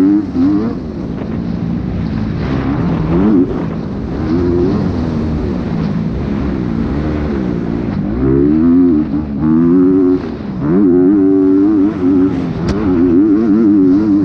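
Dirt bike engine ridden hard, its pitch repeatedly climbing and dropping as the throttle is opened and shut, heard close from on the bike.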